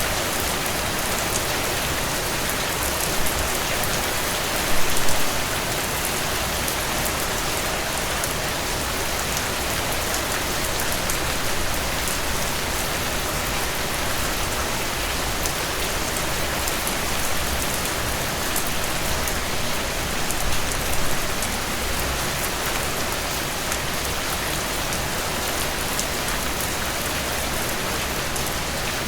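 Heavy rain falling steadily on a cabin porch, a dense even hiss with fine patter. There are brief louder bursts about five seconds in and again near twenty-one seconds.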